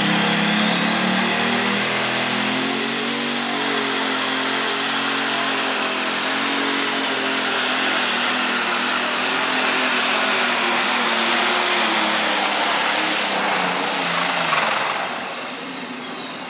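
Super stock pulling tractor's turbocharged diesel engine running at full throttle under load, with a high turbo whine that climbs over the first few seconds and then holds. The engine and whine cut away about 15 seconds in as the throttle comes off at the end of the pull.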